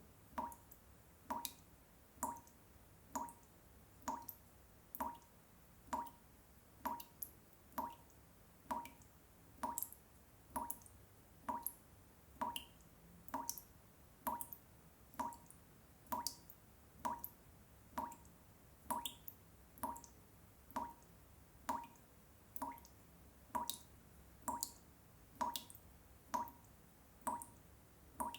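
Water drops falling one at a time in an even, unbroken rhythm, a little more than one drip a second, each a short pitched drip.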